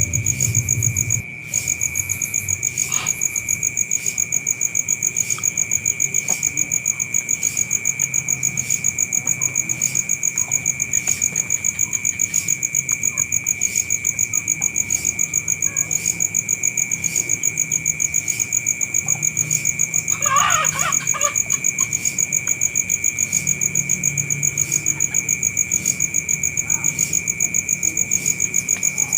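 Insects trilling steadily in the background: a continuous high-pitched chirring that pulses evenly. A brief louder sound cuts in about twenty seconds in.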